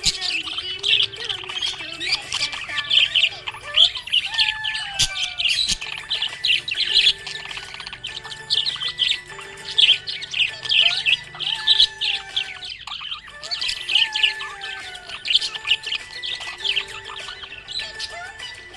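Budgerigars chirping and warbling continuously in a rapid, busy stream of high chirps.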